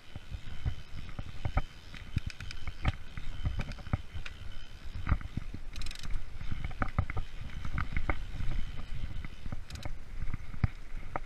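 Freeride mountain bike rolling over a forest trail: a steady low tyre rumble with frequent irregular knocks and rattles as the bike goes over bumps.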